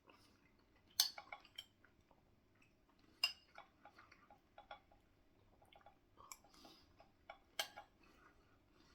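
Spoon clinking and scraping against a bowl while eating curry: a few sharp clinks, the loudest about a second in, a little after three seconds and near the end, with softer taps between.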